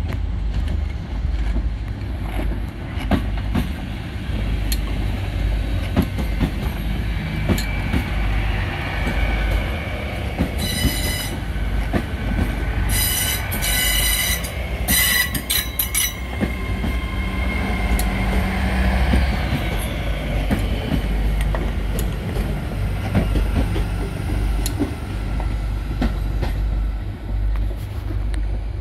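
A train moving slowly past with a low engine rumble and wheels squealing on the rails. Its horn sounds three times: one short blast about a third of the way in, then two longer blasts around the middle.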